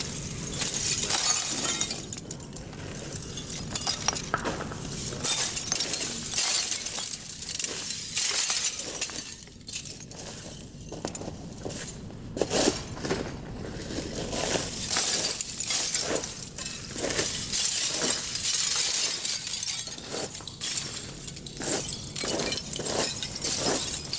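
Factory noise: continuous clattering and crashing of hard material with glassy clinks and screeches, made up of many short sharp strokes that rise and fall in loudness.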